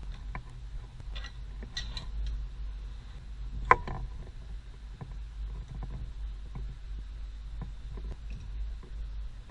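Scattered small clicks and knocks, with one sharp click about four seconds in, over a steady low rumble.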